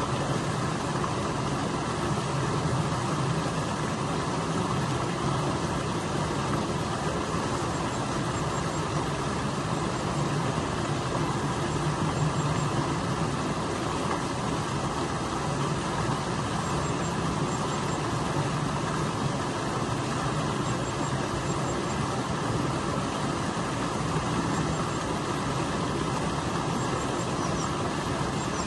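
Stream water rushing steadily over a small waterfall where it is channelled at a bridge crossing: a constant, even rush with no pauses.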